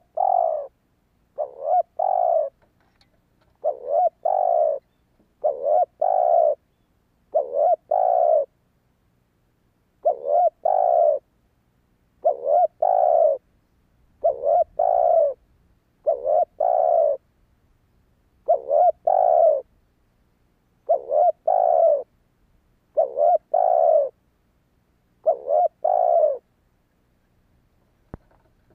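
Spotted dove cooing: a short phrase of two or three low coos, repeated about every two seconds throughout.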